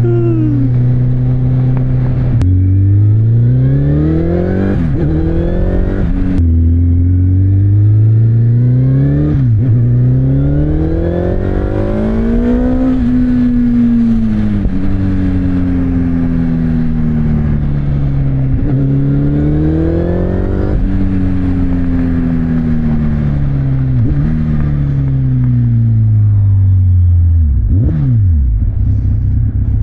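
Kawasaki Z1000's first-generation inline-four running through an Akrapovic exhaust while being ridden. The engine holds a steady note for about two seconds, then revs up with the pitch climbing and dropping sharply at two gear changes. It then rises and falls slowly, with a quick blip of revs near the end.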